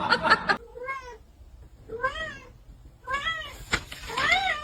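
A cat meowing four times, about a second apart, each meow rising and then falling in pitch.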